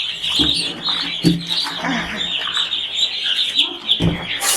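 A crowd of young chicks peeping without pause, many high chirps overlapping. A few dull knocks sound among them, and there is a short rush of noise near the end.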